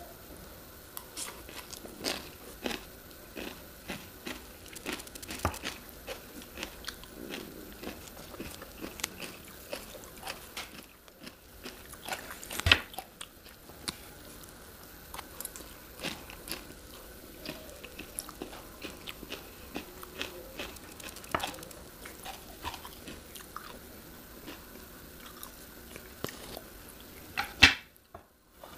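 Close-miked chewing and biting of food, with many short crunches and clicks. A louder sharp knock comes about 13 seconds in and another just before the end.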